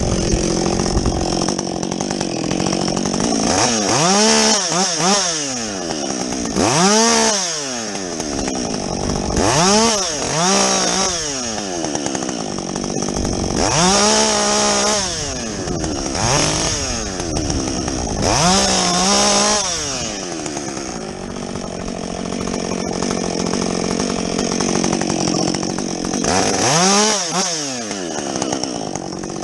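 Husqvarna 562XP two-stroke chainsaw with a modified muffler running, revved up and let back down about seven times, with a steadier lower note in between and a long steady stretch about two-thirds of the way in.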